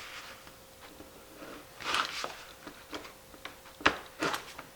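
Utility knife cutting, with a scraping rasp about two seconds in and a few sharp clicks and taps near the end.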